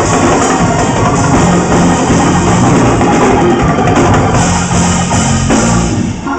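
Loud live church praise-break music with drums and a steady beat.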